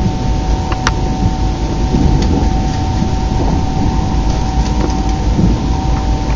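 ICE 3 high-speed train running, heard inside the passenger compartment: a steady low rumble with a steady whine over it, and a sharp click about a second in.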